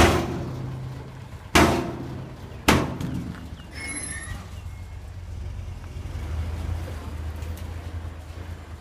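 Ten-wheel dump truck hauling rock: three loud heavy bangs in the first three seconds, each dying away briefly, over the steady low running of its diesel engine.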